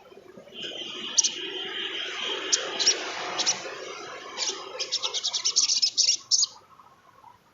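Sogon trotol (sogok ontong) songbird singing: sharp high chips over a thin steady whistle, then a fast rattling run of chips, about eight a second, that stops abruptly near the end.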